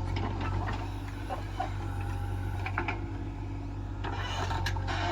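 Heavy diesel engine running steadily, with a few short knocks over it in the second half.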